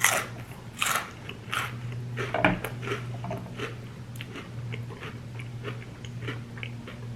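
Close-miked crunching as crunchy Cheetos-type corn snacks are bitten and chewed, in irregular crisp crunches that are loudest in the first few seconds and then lighter.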